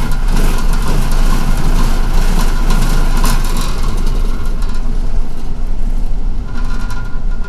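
Cabin noise of a moving MTA city bus: a steady engine rumble and road hiss with small rattles, the hiss easing off near the end.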